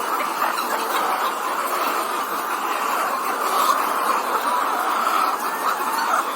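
A large flock of layer hens clucking and chattering together, a dense steady din of many overlapping calls.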